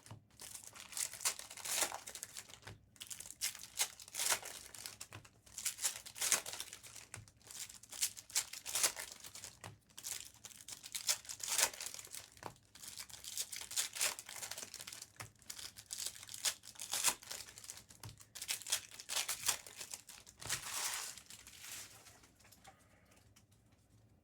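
Foil trading-card pack wrappers being torn open and crinkled by hand, in irregular bursts of crackling that die away a couple of seconds before the end.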